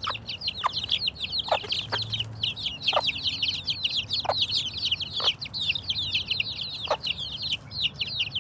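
A brood of chicks peeping nonstop in rapid high cheeps, while a mother hen gives short clucks every second or so.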